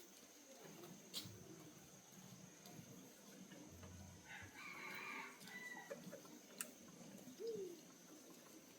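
A faint rooster crow, lasting about a second, about four and a half seconds in. A few sharp clicks come before and after it.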